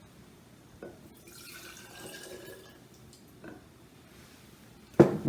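Leftover sugar-water hummingbird nectar being poured into a glass mason jar, its pitch rising slightly as the jar fills, with a few light clicks. A sharp knock near the end is the loudest sound.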